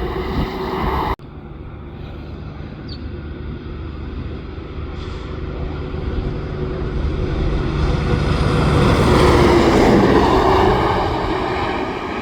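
A heavy truck approaches and drives past, its engine and tyre noise building to a peak about nine seconds in and then easing off, the pitch dropping slightly as it passes. About a second in, an earlier louder sound cuts off suddenly.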